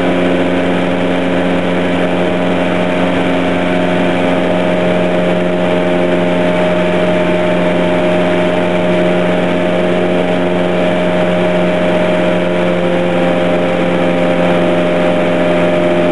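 Light aircraft's piston engine and propeller running steadily at a constant pitch, with no change in speed.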